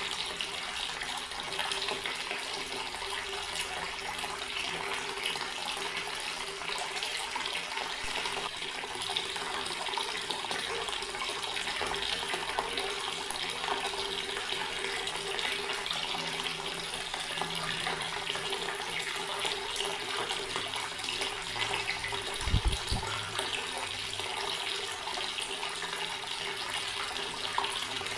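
Garden water tap running in a steady stream, a continuous rushing splash. A brief low thump comes about two-thirds of the way through.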